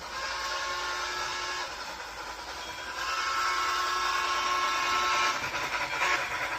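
Train whistle blowing two long blasts of a steady chord, the second longer and louder.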